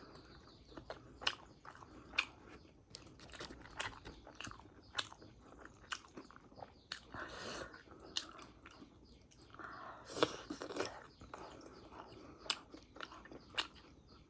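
Close-up chewing of crunchy fried momos: many irregular crisp crunches and bites, with softer wet mouth sounds between them.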